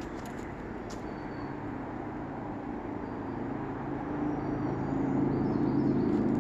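A motor vehicle engine running with a steady low hum, growing louder toward the end.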